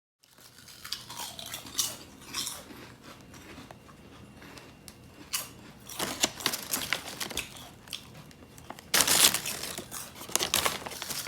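Close-up handling noise: scattered light clicks and crinkling, rustling sounds, with a louder rustle about nine seconds in.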